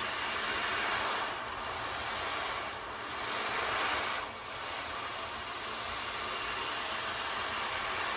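Beads rolling across a wave board, a steady rushing wash like surf that swells around a second in and again near four seconds, then eases back.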